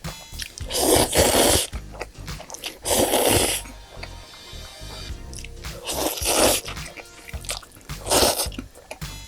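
Close-miked eating sounds from a meal of spicy cold noodles and chicken skewers: chewing, with four loud slurping bursts about two seconds apart.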